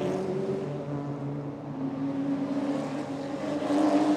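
GT race car engines running past at moderate pace while the field circulates behind the safety car; one engine rises in pitch near the end as a car accelerates past.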